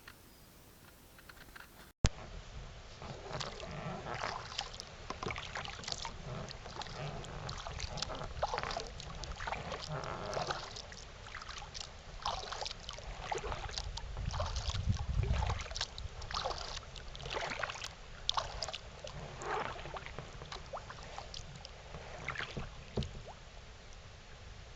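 Kayak paddle strokes, the blades dipping and splashing in lake water roughly once a second, starting about two seconds in.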